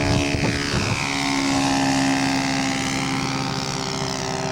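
Radio-controlled scale model airplane's engine running steadily in flight, its pitch bending slightly as it passes.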